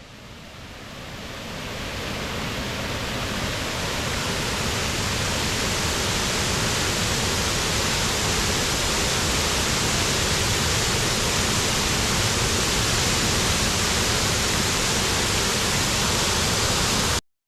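Water pouring over a dam spillway: a steady, dense rush that fades in over the first few seconds and cuts off abruptly just before the end.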